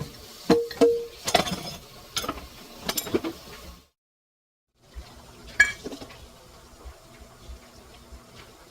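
Clinks, knocks and clatter of containers and shelf parts being handled while a refrigerator is cleaned out, one clink ringing briefly about half a second in. After a second-long cut to silence, a faint steady hum with a single click.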